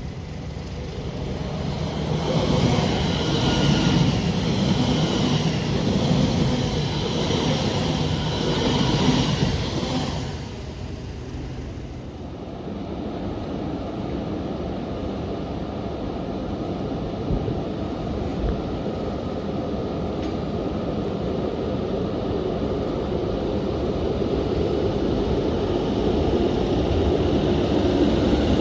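A train passing on the main line. It runs loud for about eight seconds with a high steady whine over the rumble, falls off sharply about ten seconds in, then a steadier rumble slowly builds toward the end.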